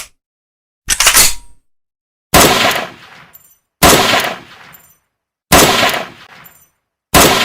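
Real gunshot recordings: a short shot about a second in, then four louder single shots about a second and a half apart, each with a long fading echo and a faint high tick after it.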